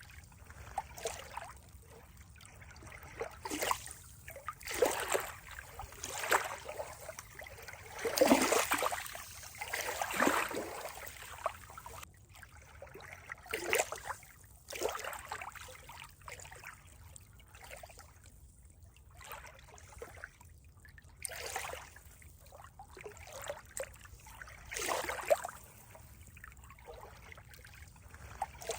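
Water trickling and splashing in uneven surges, some louder than others, with the loudest stretch about eight to eleven seconds in.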